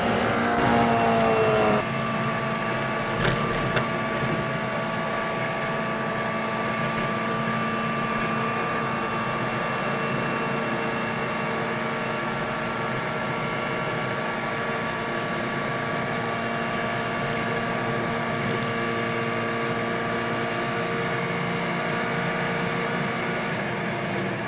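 Mini race car's engine heard from inside the cabin, holding a steady drone at constant revs. In the first two seconds, before a sudden change, an engine note rises in pitch.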